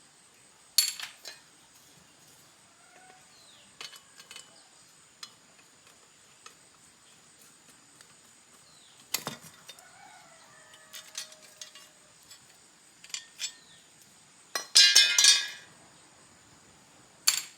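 Scattered metallic clinks and clanks of tools and small parts being handled, with a loud burst of clattering about fifteen seconds in.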